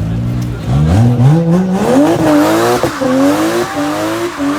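Car engine revving hard from idle, pitch climbing steeply and then held high with repeated dips, as the tires break loose in a burnout; the hiss of spinning tires comes in about two seconds in.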